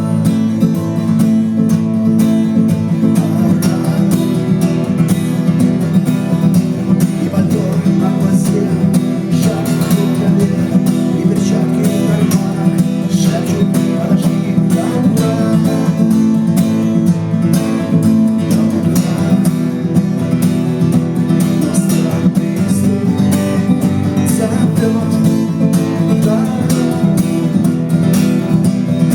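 Acoustic guitar strummed steadily in an instrumental passage between sung verses.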